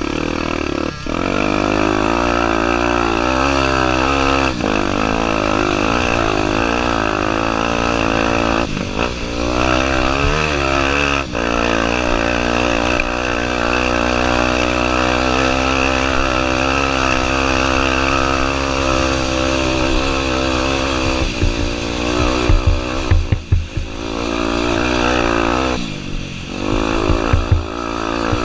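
Honda Tornado 250's single-cylinder four-stroke engine running under load, its revs rising and falling with the throttle. There are brief drops in engine sound a few times, and a rougher, choppier stretch near the end.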